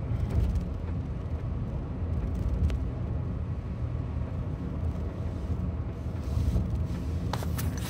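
Steady low road and engine rumble of a Honda N-BOX Custom being driven, with a few light clicks, a small cluster of them near the end.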